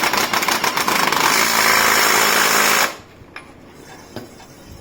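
Power impact wrench hammering rapidly as it runs a fastener down, for about three seconds before stopping abruptly.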